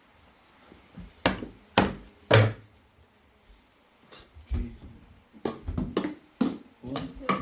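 A series of irregular knocks and thuds, a dozen or more short impacts, the loudest about two and a half seconds in.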